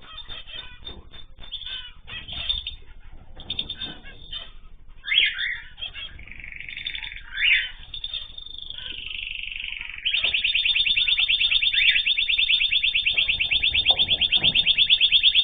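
Small cage birds chirping, with short calls and wing flutters. About ten seconds in, a loud, fast, even trill of rapidly repeated high notes starts and carries on.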